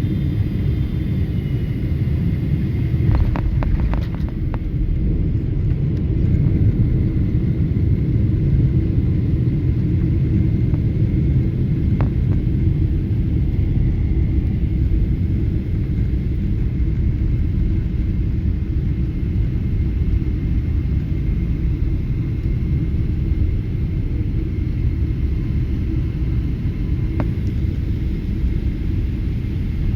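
Steady low rumble of a vehicle in motion, with a few brief faint clicks.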